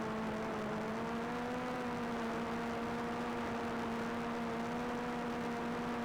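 Quadcopter drone's propellers humming steadily at one pitch, which wavers slightly about a second and a half in.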